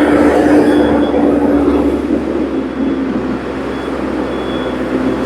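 Heavy vehicle engine running close by: a loud, steady rumble with a droning hum that dips slightly in pitch about two seconds in.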